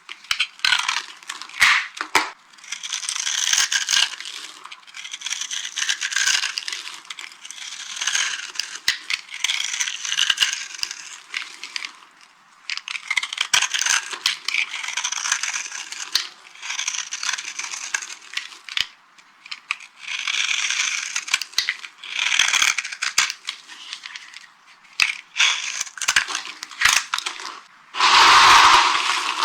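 Dry carved soap being crushed: crisp crunching and crumbling in a run of separate bursts, the loudest and fullest near the end.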